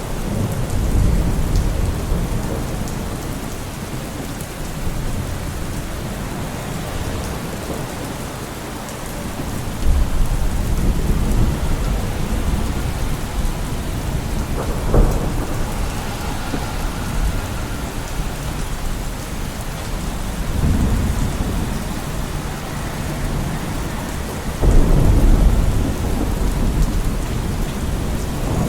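Steady heavy rain falling, with loud low rumbling swells that come and go every few seconds, from road traffic or distant thunder.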